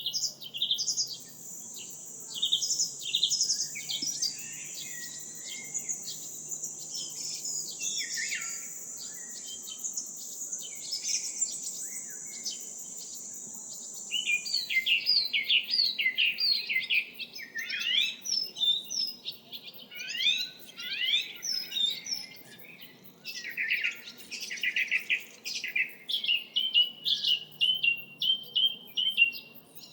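Several songbirds chirping and trilling, with many short, rapid calls overlapping. A steady high-pitched buzz sits behind them for the first half and stops about halfway through.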